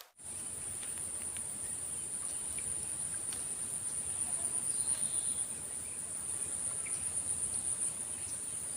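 Insects trilling: one steady, high-pitched continuous buzz, over a low background rumble.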